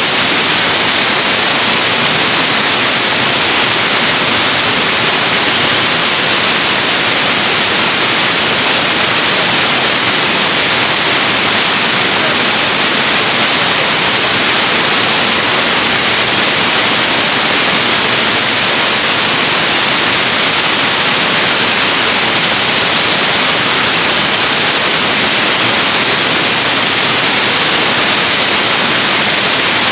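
Waterfall: falling water making a loud, steady rushing hiss with no breaks or changes.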